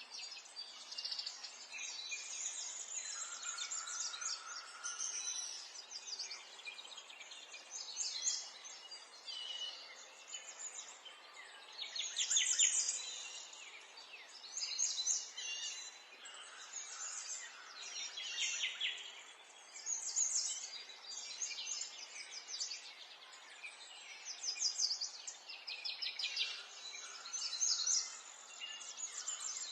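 Small songbirds chirping and singing, several calls overlapping in short bursts of trills and tweets every second or two, over a faint steady background hiss.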